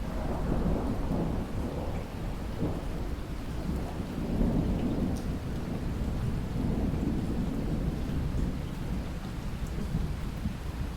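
A long, low roll of thunder over steady rain. The rumble swells in right at the start, rolls on for most of the stretch and eases off near the end, while the rain hiss continues underneath.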